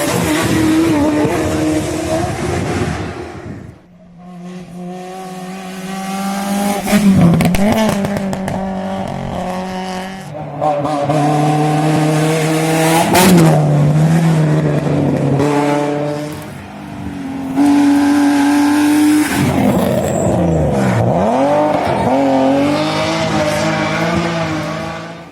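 Race car engines at a hillclimb, revving hard and climbing through the gears as the cars go past, the pitch repeatedly rising and then dropping at each gear change. Loudness dips briefly about 4 s in and again near 17 s between passes.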